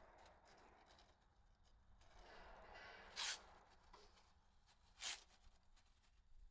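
Masking tape being worked while masking off a motorcycle engine for painting: a faint rustle, then two short, sharp rips about two seconds apart, the first the louder.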